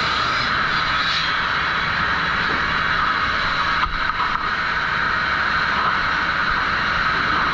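Steady drone of sawmill machinery running at the trim saw station, with a brief dip about four seconds in.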